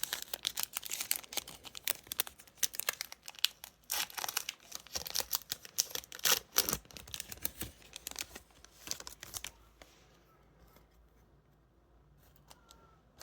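A Panini Select 2024 WWE trading-card pack wrapper being torn open and crinkled in the hands, a dense run of crackling that stops about nine and a half seconds in, leaving only faint handling.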